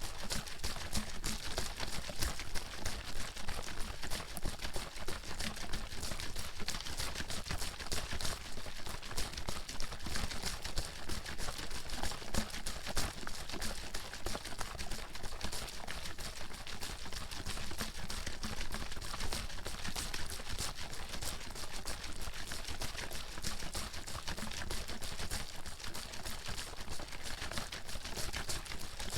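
Water bottle being shaken continuously, the water sloshing and knocking inside in a fast, steady rhythm.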